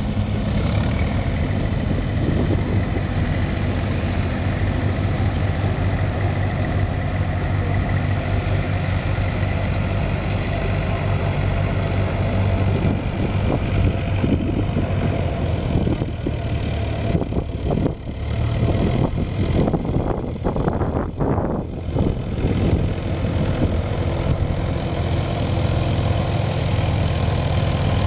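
Old farm tractor engine running steadily, with an uneven, choppier stretch about halfway through.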